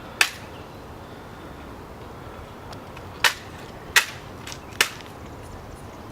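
Ceremonial guard drill at the changing of the guard: four sharp clicks, one about a quarter second in and three close together from about three seconds in, over a steady background hiss.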